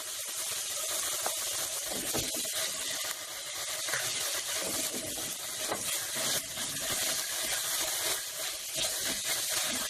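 Chopped onions fried till transparent, with ginger-garlic paste just added, sizzling steadily in hot oil in a pot, with the scrape of a wooden spatula stirring them.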